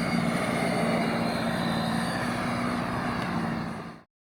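Twin 90 mm electric ducted fans of an Me 262 RC jet running in flight: a steady rushing whine with a steady low hum underneath. It cuts off suddenly near the end.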